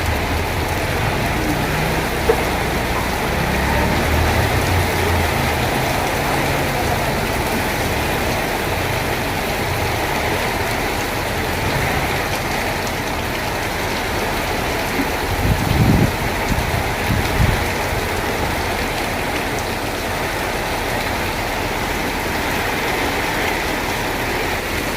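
Heavy rain falling steadily, with a low rumble in the first few seconds and again a little past halfway.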